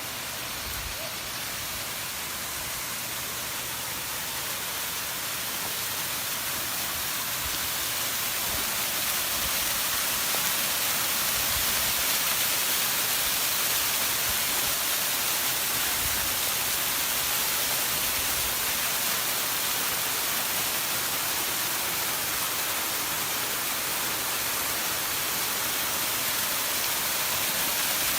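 Rain-fed waterfall rushing: a steady hiss of falling water that grows slowly louder over the first ten seconds or so, then holds.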